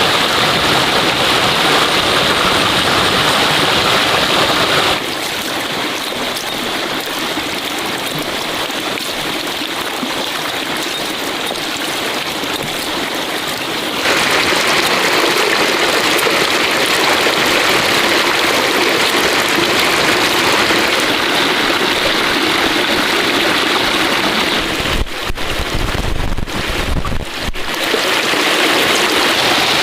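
Steady rush of running water. It turns abruptly quieter and thinner about five seconds in and returns fuller about fourteen seconds in, and a brief low rumble breaks in around twenty-five seconds in.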